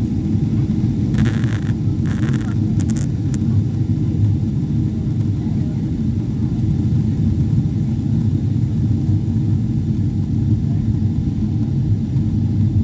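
Airliner in flight on approach to landing: a steady low rumble, with a few brief rustling noises about one to three seconds in.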